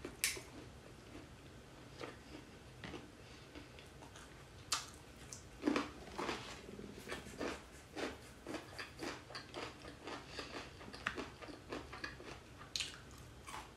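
Close-up chewing and mouth sounds of a person eating corn-cheese fried chicken, a piece of dry breast meat: soft wet chews with many small clicks and crunches, busiest in the middle.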